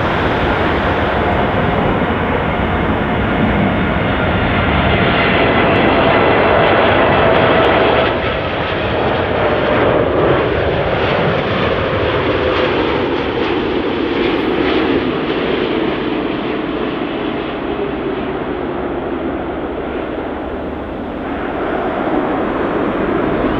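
Jet airliner's engines passing close by: a loud roar with a high whine, loudest until about eight seconds in. After that the engine tone slowly falls in pitch as the aircraft moves away.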